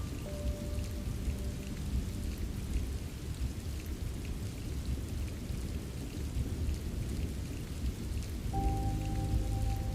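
Steady rain with scattered drops ticking and a low rumble underneath. Soft, sustained ambient music notes come in faintly near the start, and a held chord enters about 8.5 seconds in.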